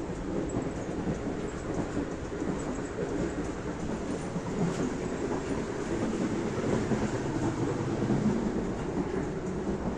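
Sleeper train moving along the track: a steady rumble of wheels on rails with light, scattered clicks.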